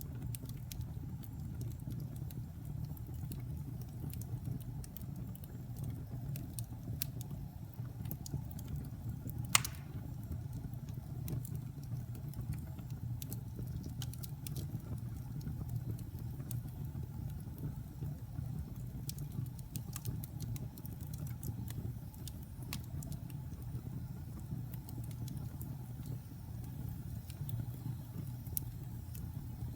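Wood fire burning in a fireplace: a steady low rumble of flames with scattered crackles, and one loud pop about nine and a half seconds in.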